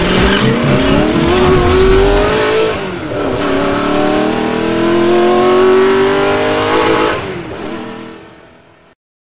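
Engine accelerating hard, its pitch climbing, dropping at a gear change about three seconds in, then climbing again before fading away.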